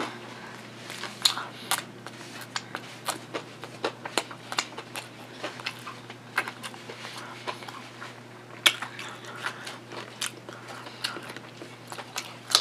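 A person eating close to the microphone: irregular wet mouth smacks and clicks of chewing, with a louder snap a little after two-thirds of the way in. About halfway through a finger is sucked clean.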